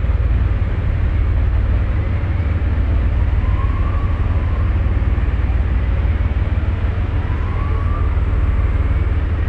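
Ferry under way: a loud, steady low rumble with a rushing noise over it, and a faint rising whistle twice.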